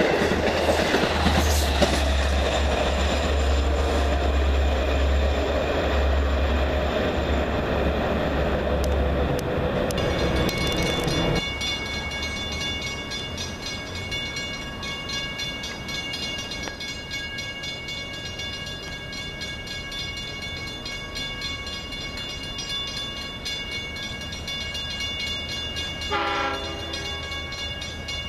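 A train passing through the station: a loud rumble and rolling noise for about the first eleven seconds, then quieter, with a steady high-pitched whine and a short tone sounding near the end.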